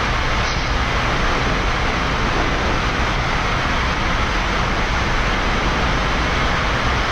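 Steady rushing noise of the engines and airflow on the flight deck of a Boeing 787-9 as thrust is brought up for takeoff, before it is stabilized and set.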